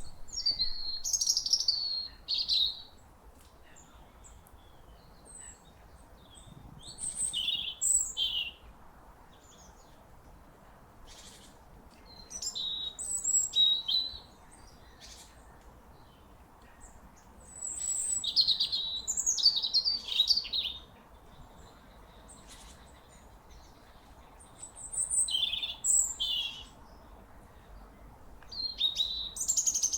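A songbird singing: six short, varied, high-pitched phrases, each a couple of seconds long, separated by pauses of a few seconds.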